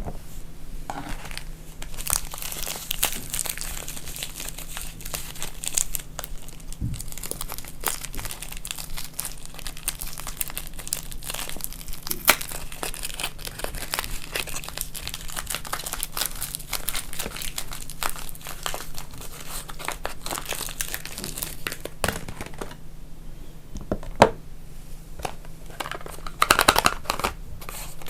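Soap packaging being unwrapped by hand: wrapping crinkling and tearing, with many small crackles and clicks, easing off briefly and picking up again in a louder flurry near the end.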